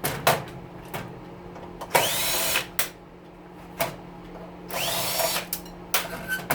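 Cordless drill-driver run twice in short bursts, about two seconds in and again about five seconds in, backing screws out of an oven's sheet-metal panel. Metal parts clicking and knocking in between, over a steady low hum.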